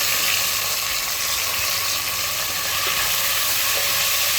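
Sliced onions sizzling steadily in hot oil and ghee in a pressure cooker as they are sautéed.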